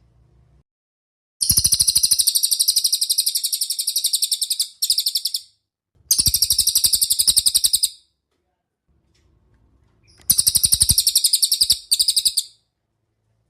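A songbird's rapid chattering trill of about ten notes a second, given in several bursts of one to three seconds with short silent gaps. It is a masteran call recording used to teach caged songbirds.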